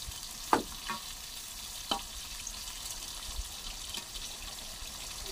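Tempe frying in hot oil in a small wok, a steady sizzle, while a metal spatula stirs it and clinks against the pan a few times.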